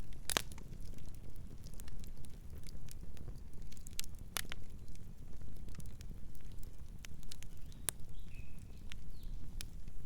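Campfire crackling: scattered sharp pops and snaps over a steady low rumble of the burning wood, with a louder pop just after the start and another about four seconds in. A bird chirps softly twice near the end.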